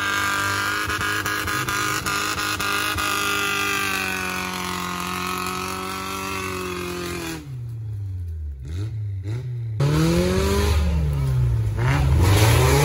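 Off-road 4x4's engine running under load, its pitch sagging slowly, then revving up and down repeatedly. The sound turns briefly muffled in the middle before the louder revving.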